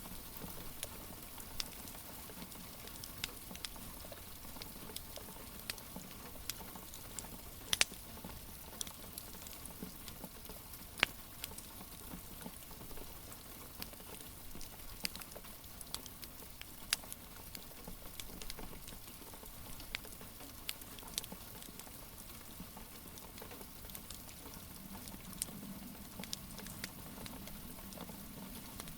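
Wood fire crackling, with sharp pops scattered irregularly through it and two louder pops about 8 and 11 seconds in, over a steady hiss of rain.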